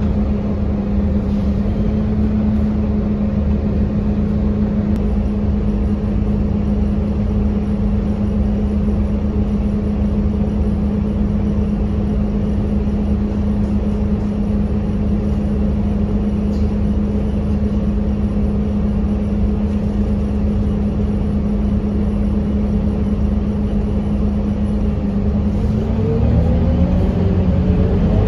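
Scania K230UB bus's 9-litre five-cylinder diesel running steadily with an even hum. Near the end it rises in pitch and gets louder as the bus accelerates.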